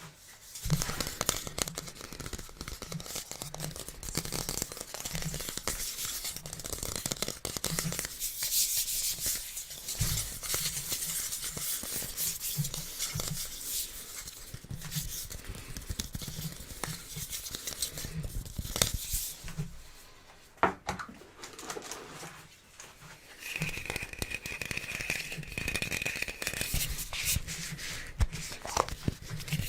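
Irregular rustling and crinkling noise with scattered clicks, and a brief high wavering tone lasting a few seconds about three-quarters of the way in.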